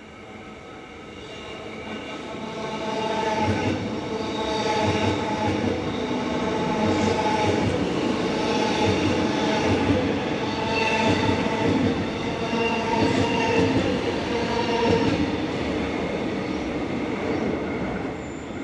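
Melbourne suburban electric train moving along the platform. It grows louder over the first few seconds, holds with a steady multi-tone motor whine over repeated low wheel thumps, then drops away near the end.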